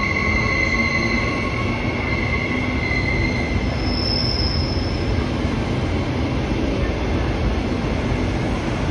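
Queensland Rail electric multiple-unit train rolling into the platform with a steady rumble. A high-pitched whine fades out over the first three seconds, and a short high squeal sounds about four seconds in.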